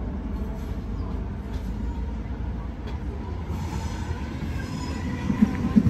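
Double-deck electric passenger train approaching along the platform with a steady low rumble. A faint high whine comes in about halfway through, and a few wheel clacks over rail joints follow near the end.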